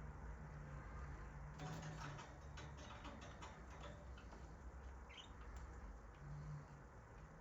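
Budgerigars making a run of quick, faint clicks for about three seconds, then a single short chirp, over a steady low hum.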